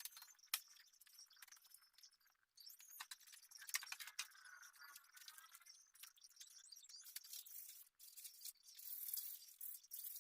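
Faint, scattered sharp clicks and light scraping sounds, thin and high-pitched, over near silence.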